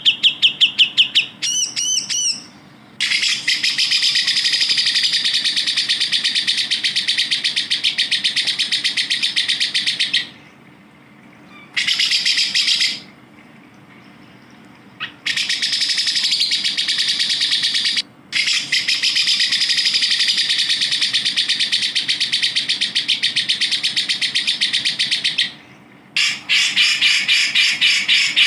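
A songbird sings long, rapid, chattering trills. There are several phrases, the longest about seven seconds, separated by short pauses, with a few quick up-and-down whistled notes near the start.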